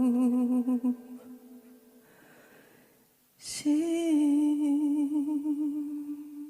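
Background pop ballad with a singer holding a long note with vibrato that fades out about a second in. After a hush of about two seconds, the singer comes back in and holds another long note.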